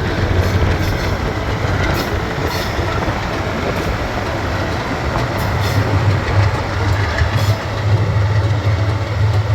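GE U23B diesel-electric locomotive running with a steady low engine drone, along with rail noise and a few scattered sharp clicks.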